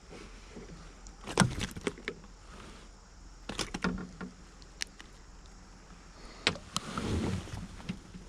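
Scattered knocks, clicks and rustles of things being handled in a kayak, about eight separate knocks with a few dull thumps among them.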